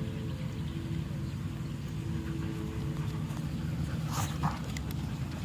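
Husky giving two short yips about four seconds in, over a steady low rumble.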